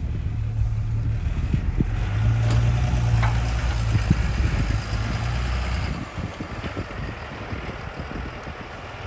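A vehicle engine idling steadily, its low hum fading out about six seconds in.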